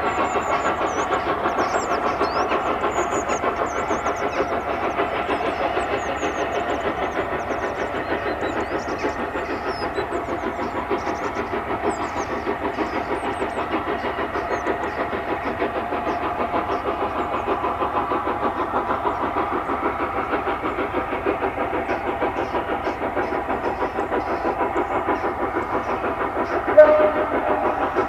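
Steam locomotive working hard up a steep gradient, its exhaust beating in a fast, even rhythm throughout. One brief, sharp, louder sound cuts in near the end.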